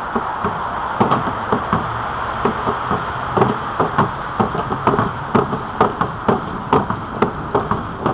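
Bicycle rattling and knocking over the trail surface while riding: a quick, irregular run of knocks, about two or three a second, over a steady rush of wind and tyre noise.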